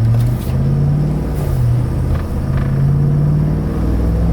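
Chevrolet Avalanche V8 engine and road drone heard from inside the cab under way, its note climbing, dropping back briefly about a second and a half in, then climbing again.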